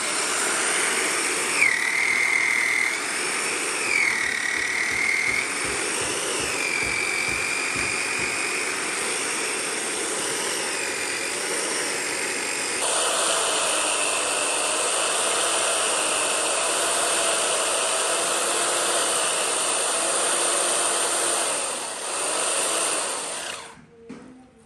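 Woodworking power tool running under changing load, with a whine that wavers up and down as the cut bites. The sound changes abruptly about halfway through and stops suddenly near the end.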